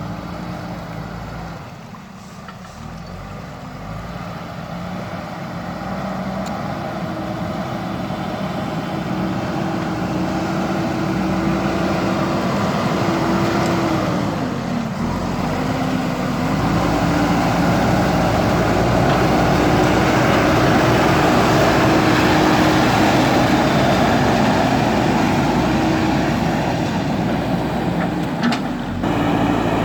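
JCB backhoe loader's diesel engine running under working load. It grows louder through the first half, its note dips briefly about halfway through, then it picks up again.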